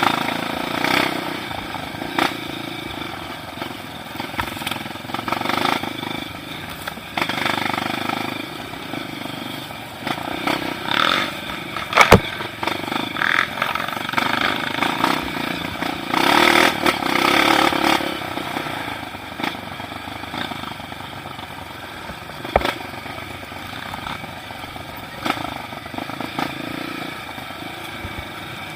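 Motorcycle running on a dirt trail, engine and wind noise rising and falling, with a sharp knock about twelve seconds in and another later.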